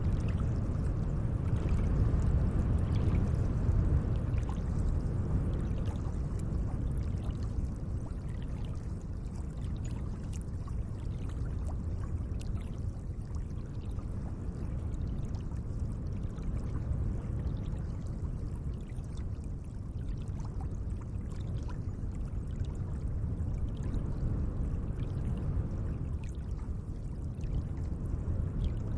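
Gentle lake water: a steady low wash of moving water with small splashes and drips scattered through it, a little louder in the first few seconds.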